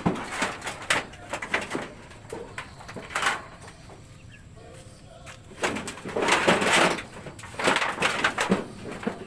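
Ducks calling in several rough, noisy bursts, the longest two in the second half.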